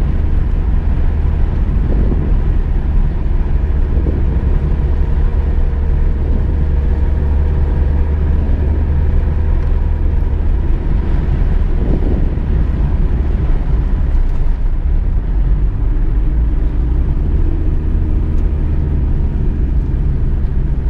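A car being driven: a steady low engine and road rumble with no change in pace.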